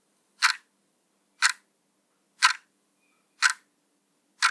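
Clock-style countdown timer ticking, one short, sharp tick each second, five ticks in all.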